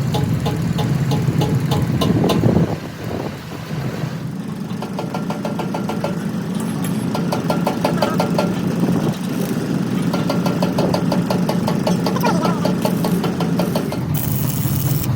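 An engine running steadily, with a regular rapid ticking over its hum and a brief dip in level about three seconds in.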